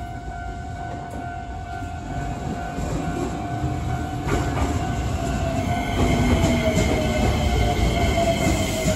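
Shizuoka Railway A3000-series electric train pulling into the platform. Its running rumble and wheel clacks grow louder as it passes close by, and a motor whine falls in pitch as it brakes. Under it all runs the steady ringing of a level-crossing bell.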